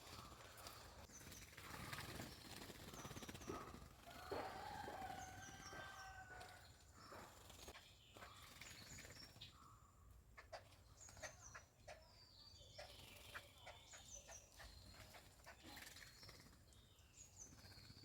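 Small garden birds chirping faintly, with short high falling chirps repeated every second or two, a longer lower call about four seconds in, and a few scattered clicks.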